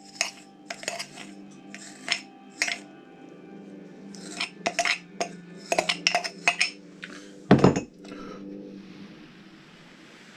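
Small hard objects, such as tools and parts on a workbench, clinking and tapping irregularly a dozen or so times, with one heavier knock about seven and a half seconds in, over a steady low hum.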